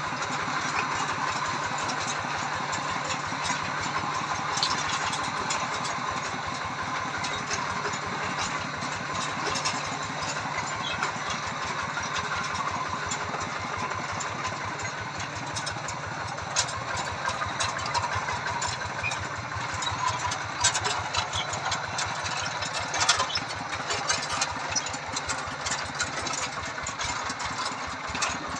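Tractor engines running steadily with a fast, even firing beat, with scattered sharp clicks and rattles.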